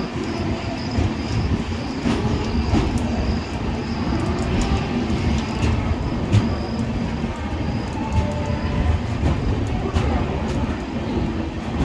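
Passenger express train coaches running along the track: a steady low rumble of wheels on rails, with scattered short clicks and knocks.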